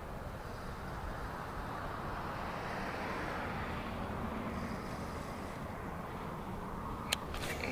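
A passing vehicle on a nearby road: a steady noise that swells through the middle and eases off. A sharp click comes about seven seconds in, followed by a couple of fainter ones.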